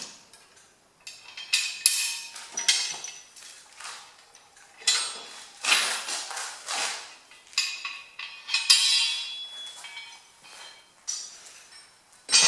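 Steel hitch pins and a trailer bracket clanking, clinking and scraping as the bracket is unpinned and pulled off a small tractor's three-point hitch by hand, in a series of irregular metal knocks and rattles.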